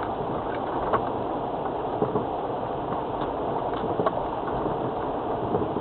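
Steady in-cabin drive noise of a 2002 Land Rover Freelander TD4 on a wet off-road lane: the diesel engine running and tyres on wet ground, with a few light knocks.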